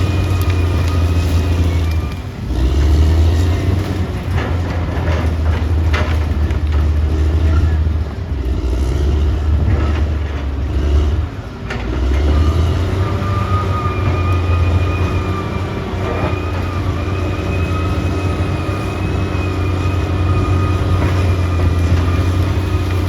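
Caterpillar D6R XL bulldozer's diesel engine running steadily under load, with a steady high-pitched whine over it. The engine note dips briefly twice, and a few sharp clanks come through near the middle.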